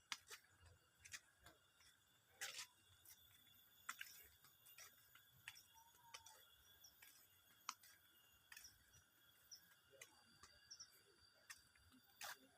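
Near silence: faint ambience with scattered soft clicks and ticks over a few steady high thin tones.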